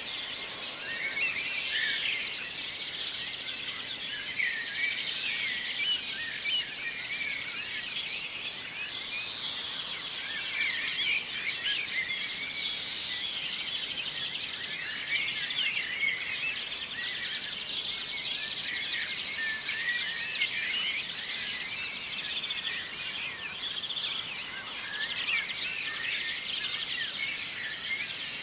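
Morning chorus of many songbirds singing at once: a dense, continuous tangle of overlapping chirps, trills and whistled phrases.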